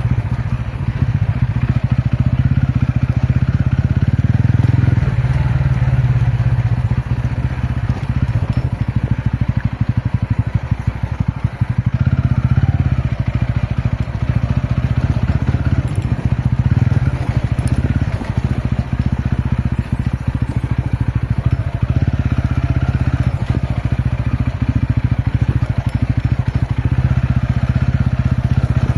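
Ronin motorcycle's single-cylinder engine running on an off-road ride, a dense low pulsing drone at a fairly steady pace.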